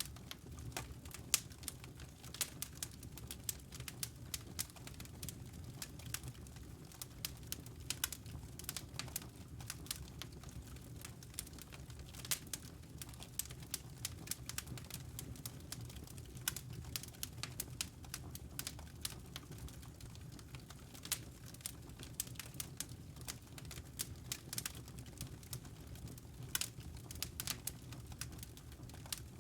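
Fireplace fire crackling: frequent, irregular sharp pops and snaps, a few louder than the rest, over a low steady rumble.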